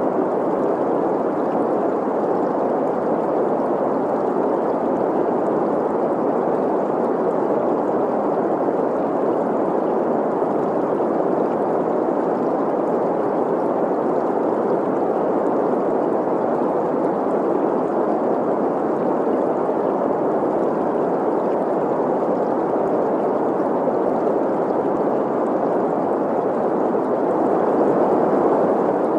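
Steady green noise, a hiss centred in the middle range around 500 Hz, blended with the sound of a flowing stream. It swells slightly near the end.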